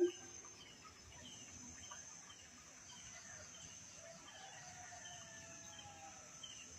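Faint rural background: a distant rooster crowing about four seconds in, over a steady high insect hum and scattered faint bird chirps.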